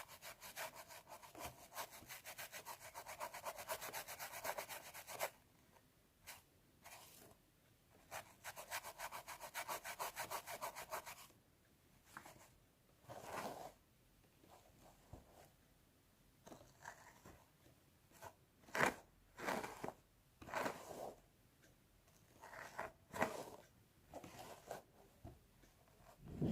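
Fingernails scratching a scalp through the hair close to the microphone: two runs of fast, rapid back-and-forth scratching, then slower separate rubbing strokes.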